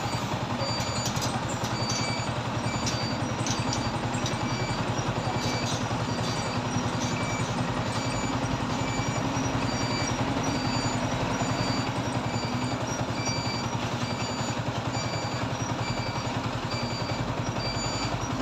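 Yamaha R15 V3's single-cylinder engine idling steadily, with an even, unchanging beat, just after its valve clearances were reset to stop a tappet noise.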